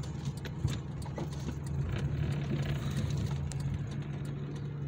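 Car engines running at low speed, heard from inside a car cabin: a steady low hum that swells a little in the middle as a Hyundai Elantra creeps slowly past close alongside, with scattered light clicks.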